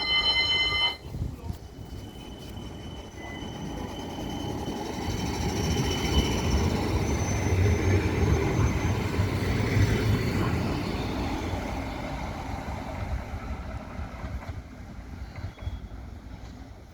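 A tram passes: a brief horn note at the start, then its running noise swells over several seconds, peaks with a rumble and a thin high whine, and fades away as it goes.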